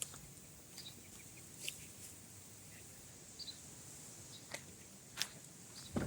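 Faint outdoor quiet with a few short bird chirps and scattered light clicks.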